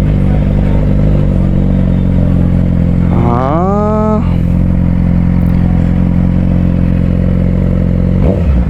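Suzuki GSX-R600 inline-four engine running steadily at low revs, with one quick rise in revs about three seconds in that holds for a moment and then drops back.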